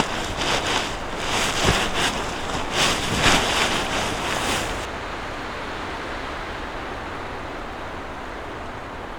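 Strong gusting wind in a snowstorm, buffeting the microphone in uneven surges. About five seconds in the sound changes abruptly to a steadier, duller rushing.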